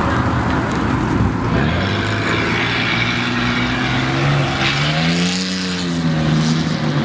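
A vehicle engine running loud and steady under a hiss, then revving up and dropping back down about five seconds in.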